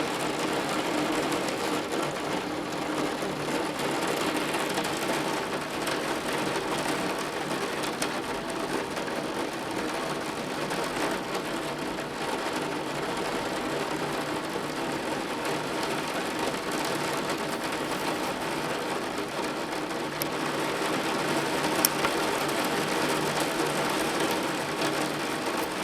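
Torrential rain falling steadily, a dense, unbroken rush of water on the roof with the gutters overflowing.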